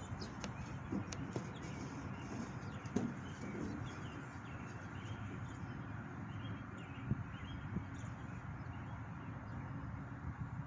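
Faint bird chirps over a steady low outdoor background rumble, with a few light knocks in the first three seconds.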